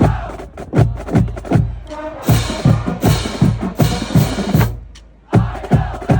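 Marching band drumline playing, with heavy bass drum hits about twice a second under snare drums. A bright cymbal wash runs through the middle, and there is a short break just before the end.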